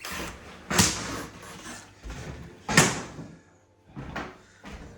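Two loud sharp bangs about two seconds apart, each with a short ringing tail, followed by a few fainter knocks.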